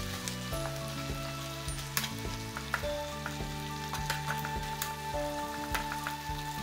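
Beef and onion stir-frying in a frying pan: a steady sizzle with repeated sharp clicks and scrapes of the spatula against the pan as the food is mixed. Soft background music runs underneath.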